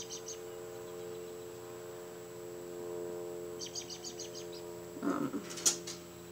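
A small bird chirping in a rapid trill of about eight quick high notes, twice: at the start and again about four seconds in. A steady low hum runs underneath, and about five seconds in there is a short rustle and a sharp click.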